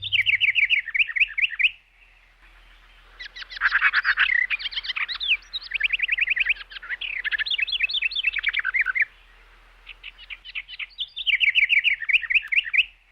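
Songbird singing rapid, high trilled phrases in three bouts separated by short pauses.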